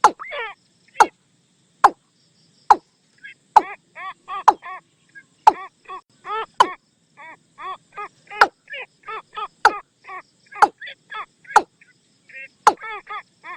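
Watercock calls, played as a trapping lure: sharp knocking notes about once a second, interleaved with quick runs of short, arched, ringing notes.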